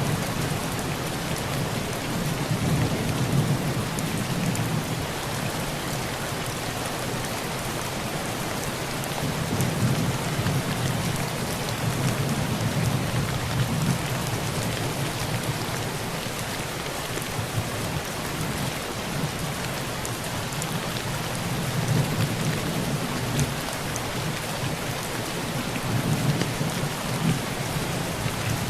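Heavy rain drumming steadily on a tin roof, with low rolls of thunder swelling and fading several times, around 3, 10, 13, 22 and 27 seconds in.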